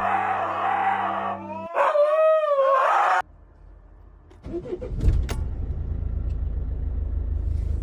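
An animal howls once for about a second and a half, its pitch rising and falling. After a cut, an engine runs with a steady low, rapid pulsing, with a sharp click a second or so after it starts.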